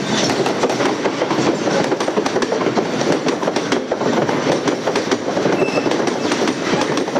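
Freight train wagons rolling past, their wheels clattering steadily over the rails, with a brief faint high squeal about five and a half seconds in.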